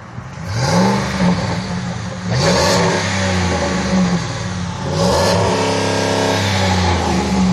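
Truck engine revved up and down several times, its pitch rising and falling with each blip and held higher for a couple of seconds before dropping near the end.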